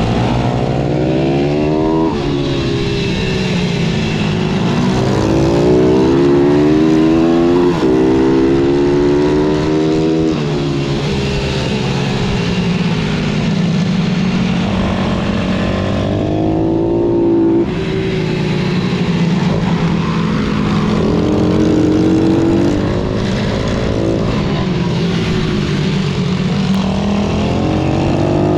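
Pitbike engine under hard acceleration, its pitch climbing several times and dropping sharply after each climb, as with gear changes and slowing for corners.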